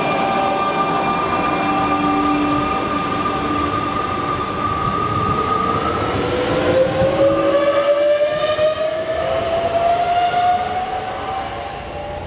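Electric regional multiple-unit train moving off over the steady rumble of its wheels on the rail. Its traction motors whine in steady tones, then a second whine climbs slowly in pitch as it gathers speed.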